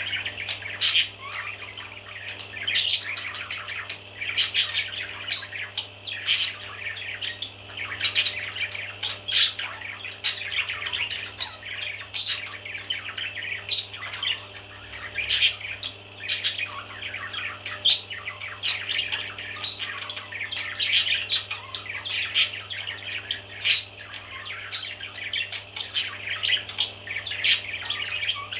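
Baby parrots chirping and squawking continuously, a dense stream of short high calls with sharper cries every second or so, over a steady low hum.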